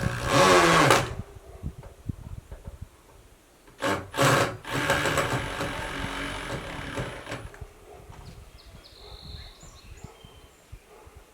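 Power drill driving screws into wood: a loud one-second run at the start, with the motor pitch shifting, then a couple of knocks and a longer run of about three seconds starting around four and a half seconds in.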